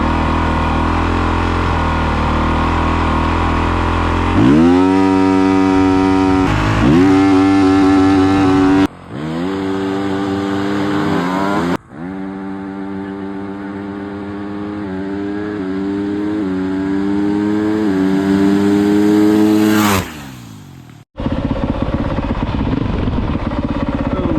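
Dirt bike engine idling, then revved hard as the bike launches: the engine note climbs steeply and dips briefly and climbs again several times as it pulls away. The sound cuts off and restarts abruptly a few times, and it ends on a rough, uneven idle.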